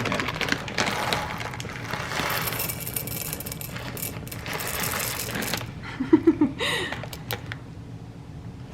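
Whole coffee beans poured into a container being weighed, a dense clatter of small hard beans for about five and a half seconds, then a few separate clicks.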